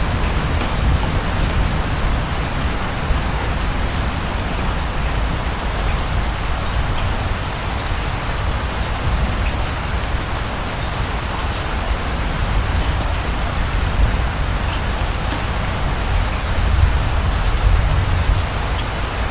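Steady rain falling on surfaces, with scattered drops and a low rumble underneath that swells slightly near the end.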